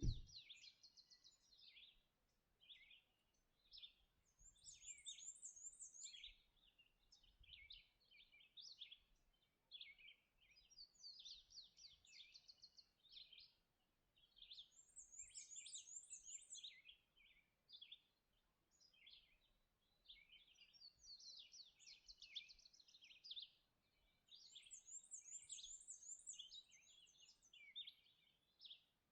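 Faint dawn chorus of several songbirds singing at once, a near-continuous run of chirps and warbled phrases, with one high, quick trill repeated about every ten seconds. A brief low thump right at the start.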